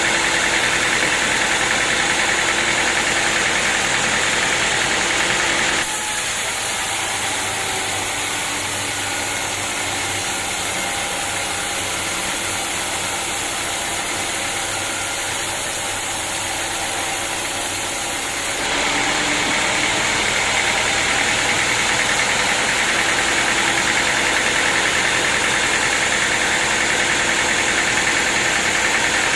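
Sawmill machinery running steadily, an engine-like drone with a strong hiss. The sound changes abruptly about six seconds in and changes back near nineteen seconds.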